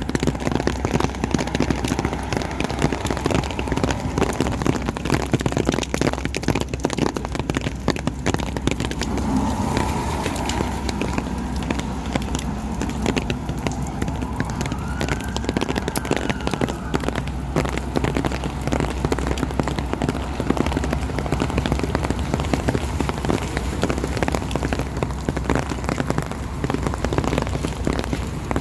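Steady rain falling, a dense crackle of drops hitting a surface, over a low hum.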